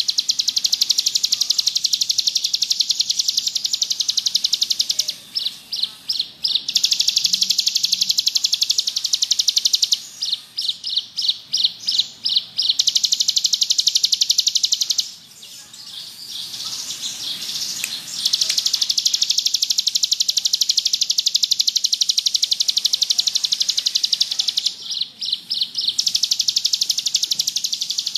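Ciblek gunung, a prinia, singing a long, very fast buzzing high trill (the 'ngebrem' song). The trill breaks a few times into short runs of separate quick notes, and about halfway through it drops to a brief softer, more varied warble before resuming.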